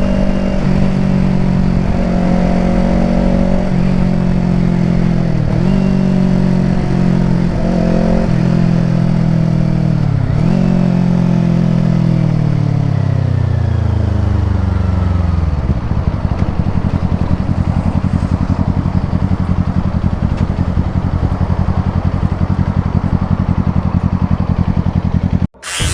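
Kawasaki Ninja 250 parallel-twin engine running under way with the engine note dipping briefly four times as gears change. It then winds down smoothly and settles into an even, pulsing idle.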